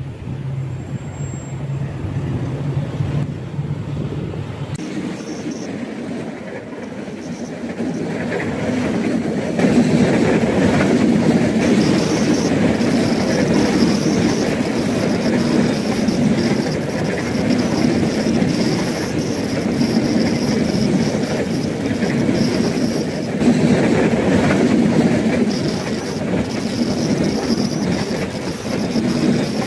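Diesel-hauled train of ballast hopper wagons passing close by. A steady low engine hum from the approaching locomotive gives way, about eight to ten seconds in, to a much louder rumble and clatter of wagon wheels on the rails. A thin high wheel squeal comes and goes through the passing.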